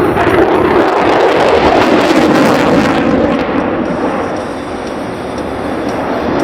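Jet aircraft engine noise, loud and rough with no clear pitch, easing slightly about five seconds in and then building again.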